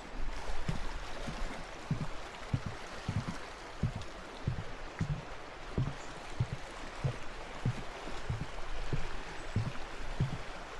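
Steady rushing of flowing water, with regular short low thuds a little under twice a second.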